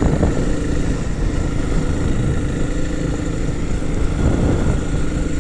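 Honda CRF300L dual-sport motorcycle's single-cylinder four-stroke engine running at a steady pace while being ridden, an even engine note over constant road and wind noise.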